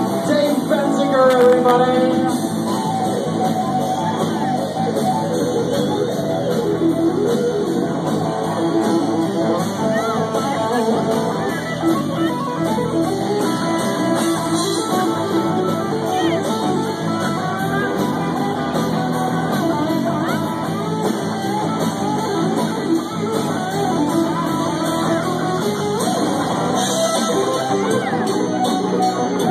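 Live rock band playing a guitar-led instrumental passage of a rock song, with steady full-band accompaniment.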